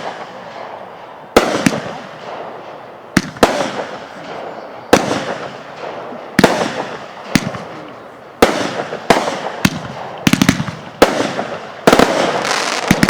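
Consumer aerial fireworks going off: a loud bang every second or so, each trailing off in crackle and rumble, with quick rattling clusters of reports about ten seconds in and again near the end.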